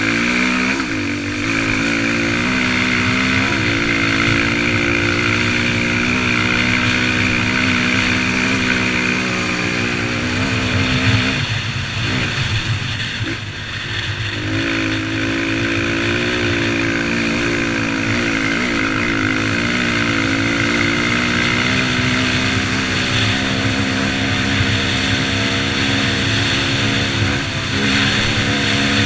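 Motocross bike engine running at fairly steady revs, with the pitch dropping and swinging up and down briefly about halfway through before it settles again.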